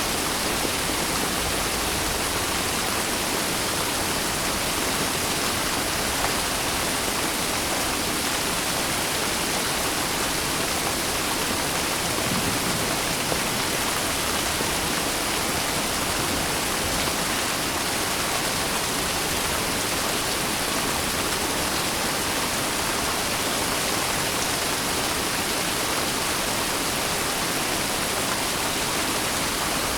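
Steady heavy rain: a dense, even hiss of falling rain with no distinct drops or thunder.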